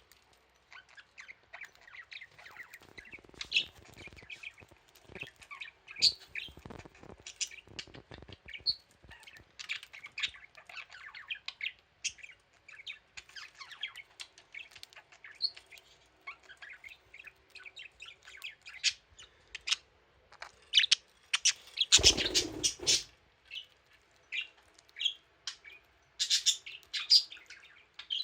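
Budgie chirping and chattering in many short, high calls, with a louder noise lasting about a second roughly three quarters of the way through.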